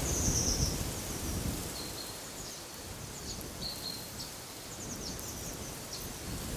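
Wind gusting with a low rumble, strongest in the first second and easing off after. Small songbirds chirp over it in short, high calls, with a run of quick downward notes in the middle.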